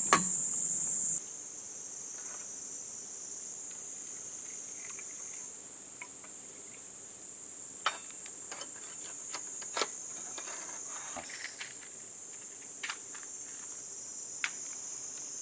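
Insects chirring steadily as a constant high-pitched drone, louder for about the first second, with a handful of sharp little clicks scattered through it.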